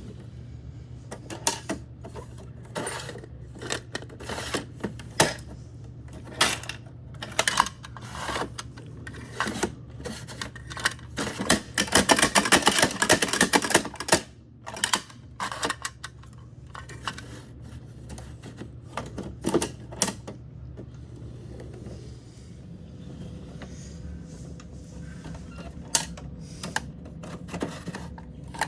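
Plastic toy garbage trucks clicking and clattering, with a dense rattling run about twelve to fourteen seconds in, over a steady low hum.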